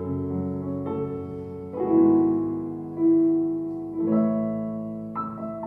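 Piano playing slow, held chords, a new chord struck about once a second and each fading away before the next.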